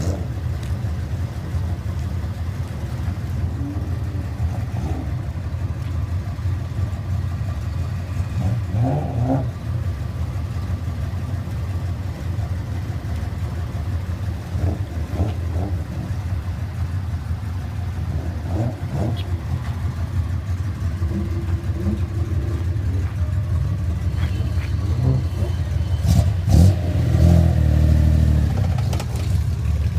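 Classic Nissan cars with loud aftermarket mufflers idling with a steady, deep exhaust rumble, the throttle blipped now and then; the loudest rev comes near the end.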